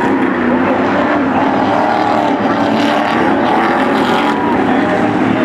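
Several Stadium Super Trucks' engines running at speed as the field passes on the track, overlapping engine notes that rise and fall, with a brighter, harsher stretch through the middle.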